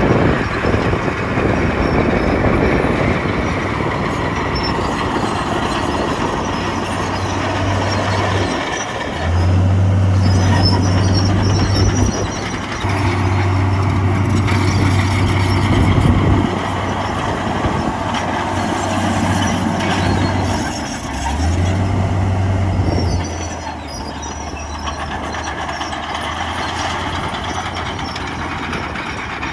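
Heavy diesel construction machinery running under load, over a continuous rattling clatter. A deep, steady engine tone drops out and returns a few times.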